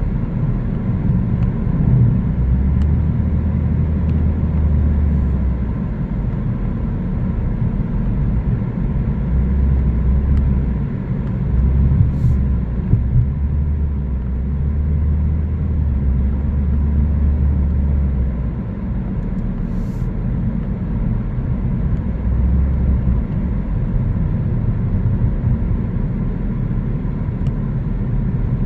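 Car driving along a road: a steady low rumble of engine and tyres, with a deeper hum that swells and fades several times.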